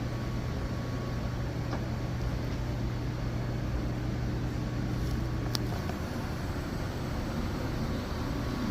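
Steady electric pump motor hum over a rumbling running noise; a sharp click comes a little over five seconds in, and the hum stops right after it.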